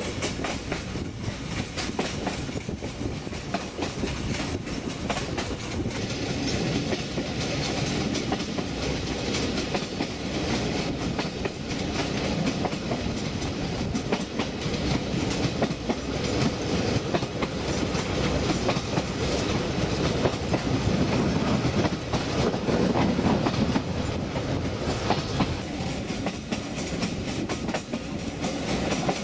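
TAZARA passenger train running along the track, a steady rumble of the carriage with irregular clatter and clacks from the wheels on the rails.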